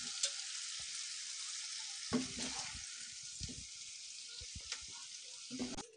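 Potato and capsicum sabzi still sizzling in a non-stick kadhai just after the gas is turned off, the hiss slowly thinning. Scattered scrapes and knocks of a spatula against the pan as the sabzi is scooped out.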